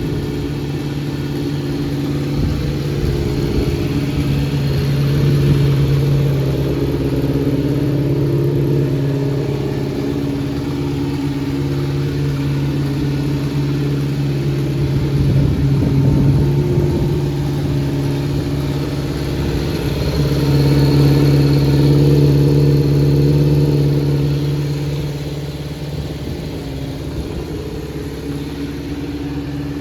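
Kawasaki Z400J air-cooled 400 cc four-cylinder engine running at idle through an aftermarket four-into-one collector exhaust, the level swelling and easing a few times. The seller describes the idle as unstable, with the carburettors needing adjustment, and a slight cam chain noise.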